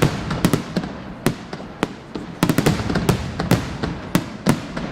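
Fireworks bursting in quick succession: about a dozen sharp bangs at irregular intervals, some in rapid clusters, with rumbling echoes between them.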